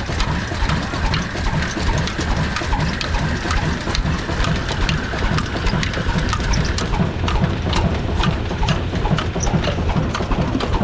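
Old Ruston diesel engine running steadily with an even repeating beat, with sharp clicks over it.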